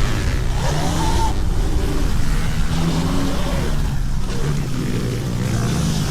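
Small dirt-bike engines running and revving over a steady low rumble, with a few rising and falling pitch glides.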